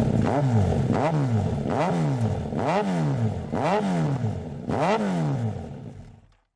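Yamaha XJR1300 air/oil-cooled inline-four, loud through an aftermarket exhaust, blipped rhythmically: about six sharp revs a second or so apart, each quickly climbing and falling back. The sound stops abruptly shortly before the end.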